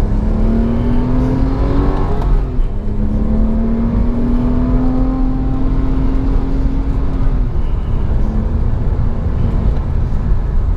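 Porsche 911 (997) Carrera's naturally aspirated flat-six accelerating hard through the gears of its six-speed manual: the engine note rises, drops at an upshift about two and a half seconds in, then climbs again more slowly in the next gear before falling away near the end. Heard from inside the car.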